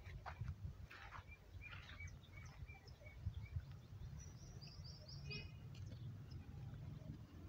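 Faint outdoor ambience with a small bird chirping: a run of about eight short, evenly spaced chirps, then a few quick higher notes a little past the middle, over a steady low rumble.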